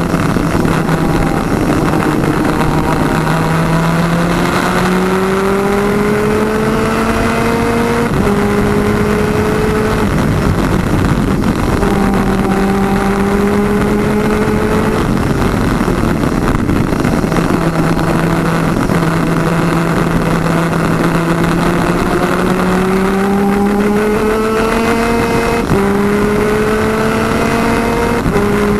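Twin-cylinder 250cc two-stroke superkart engine running at racing speed. Its pitch climbs slowly through each gear and drops sharply at the upshifts, a few times in all, over a steady rushing noise.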